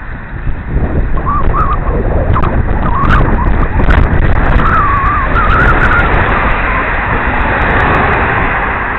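Wind rushing hard over a helmet-mounted camera's microphone on a moving bicycle, with a wavering whistle riding over the rush. The rush picks up about half a second in and stays loud.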